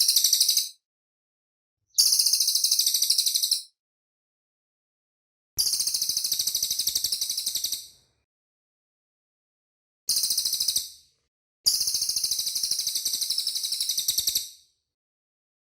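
Cililin songbird singing in bursts of a very fast, tightly packed high trill, the "rapid-fire" song prized for tutoring cage birds. There are five bursts of one to three seconds each, with dead silence between them.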